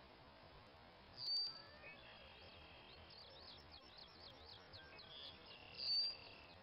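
Marsh birds calling: two short, sharp high calls, the loudest sounds, about a second in and near the end, with steady whistled notes and a fast trilling run between them.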